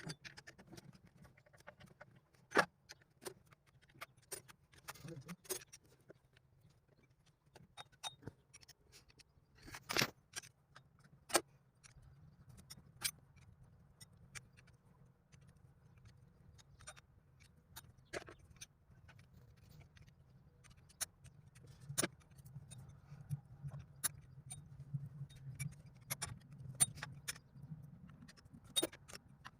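Scattered metallic clinks and taps of hand tools on engine parts during work on a Cummins 4BT engine's timing-cover oil seal, a few sharper knocks among them, over a faint low steady hum.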